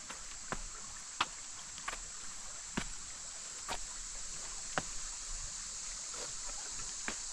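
Footsteps of a hiker on a rocky trail: sharp, uneven knocks and scrapes about once a second over a steady high hiss.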